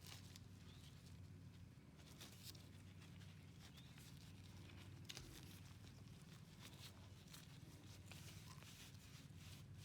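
Near silence: faint room tone with a low hum and scattered light clicks.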